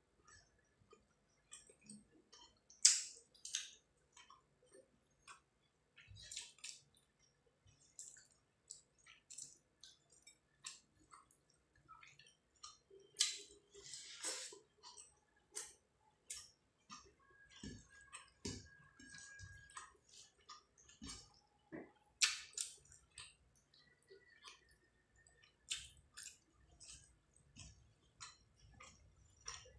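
Close-up eating sounds: wet chewing, mouth clicks and lip smacks from a mouthful of rice and curry, with fingers squishing and mixing rice on a plate. They come as scattered short, sharp smacks and clicks, two of them louder than the rest.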